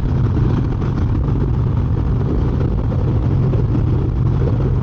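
Carbureted Harley-Davidson V-twin running steadily at cruising speed, with wind and road noise from the ride.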